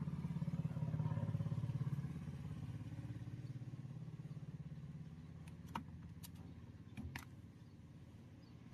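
A low, fluttering motor hum that is loudest in the first two seconds and then fades away, with a few sharp clicks in the second half.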